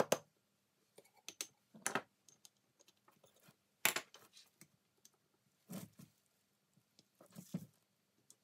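Sharp metallic clicks and clinks as the small steel parts of a dismantled three-jaw lathe chuck are handled and knocked on the bench. There are about five distinct knocks, roughly two seconds apart.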